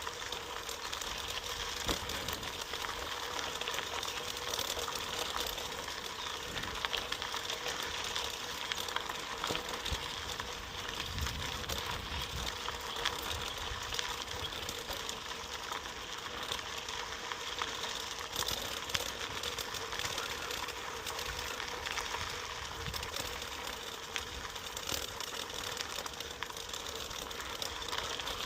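Bicycle moving over a rough trail: a steady rattle with rapid small ticks and clicks.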